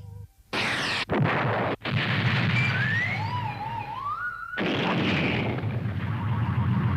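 Anime sound effects of a weapon blast and explosion: a sudden blast about half a second in, then a long rushing explosion noise with whistling tones sliding up and down. A second blast comes about halfway through and keeps on.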